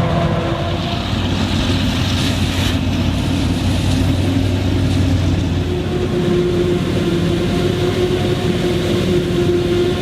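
Claas Jaguar 980 forage harvester's V12 engine running steadily under load while chopping maize, a continuous deep drone with a held whine that grows stronger about six seconds in.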